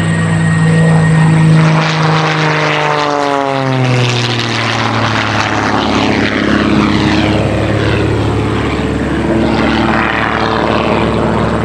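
Christen Eagle aerobatic biplanes, their piston engines and propellers running at high power as they fly past. The engine note drops sharply in pitch about three to four seconds in as they go by, then carries on as a steady drone.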